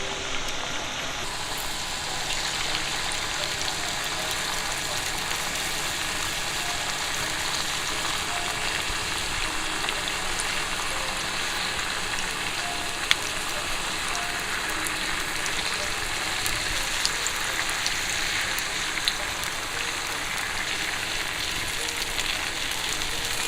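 Eggs frying in a pan: a steady sizzle with a few sharp pops, the sharpest about halfway through.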